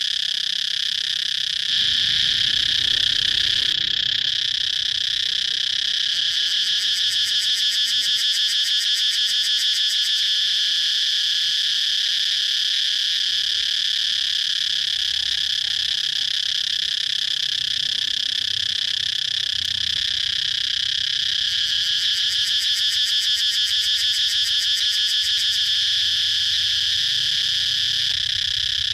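Cicadas calling: a continuous high, shrill buzz that swells into stronger, rapidly pulsing waves about seven seconds in and again about twenty-two seconds in.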